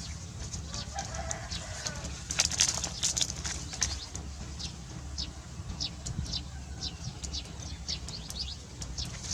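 Birds calling: many short, high chirps repeated through, with a faint wavering call about a second in, over a steady low rumble.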